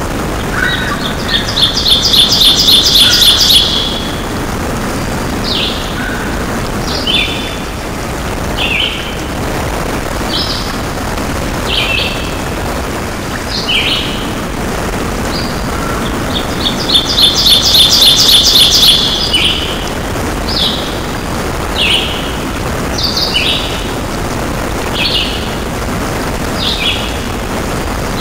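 Songbirds singing: a rapid trill of repeated high notes twice, about fifteen seconds apart, with short downward-slurred calls every second or so between, over a steady rushing noise.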